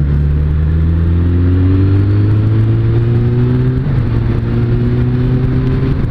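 Suzuki Bandit 600S inline-four motorcycle engine pulling under way, its note rising steadily as the bike accelerates. About four seconds in there is a brief dip, and then the engine holds a steady note.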